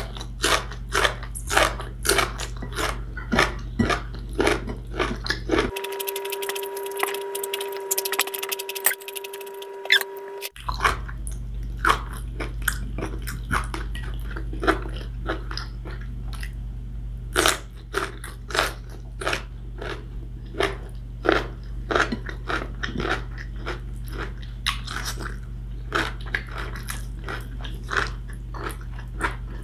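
Close-miked crunching and chewing of long beans (sitaw), with crisp bites about twice a second over a low steady hum.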